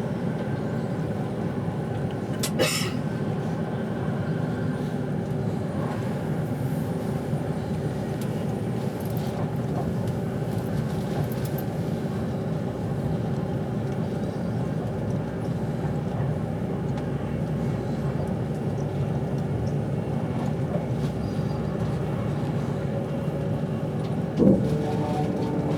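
Steady low rumble of a passenger train's interior while running at speed. There is a short sharp click a little over two seconds in, and a thump near the end, after which a steady hum sets in.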